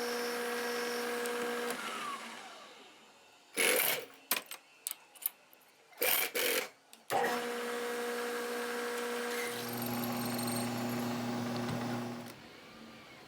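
Bridgeport milling machine spindle running steadily while drilling an aluminum hex spacer, then winding down about two seconds in. Several short, loud bursts of noise follow, then the spindle runs steadily again, with a deeper hum joining partway, and stops near the end.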